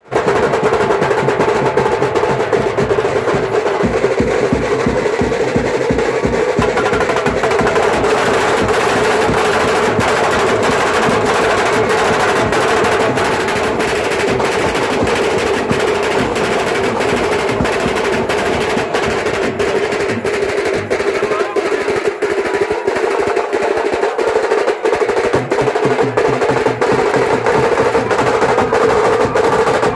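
Adivasi band playing loud, fast drum-driven music: dense snare and drum rolls with a held melodic tone above them. The low drums drop out for a few seconds past the twenty-second mark, then come back.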